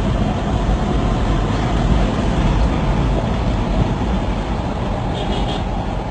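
Steady, loud rumble of traffic and road noise from vehicles moving at speed on a highway, heaviest in the low end, with no break.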